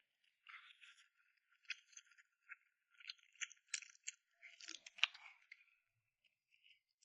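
Faint eating sounds close to the microphone: irregular crackles, clicks and crunches of food being chewed and handled, with the sharpest click about five seconds in.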